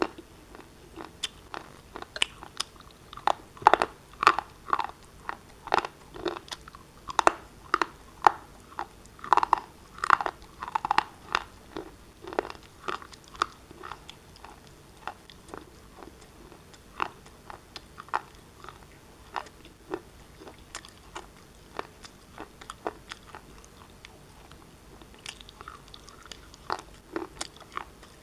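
Pieces of black shale being bitten and chewed close to the microphone: a run of sharp, dry crunches and crackles, densest and loudest in the first half, thinning to lighter chewing crackles later.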